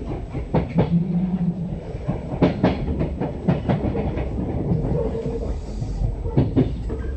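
Kintetsu 6020 series electric train running, heard from inside the car: a steady low rumble with the wheels clacking over rail joints, the clacks coming in quick pairs about every second, and a brief low hum about a second in.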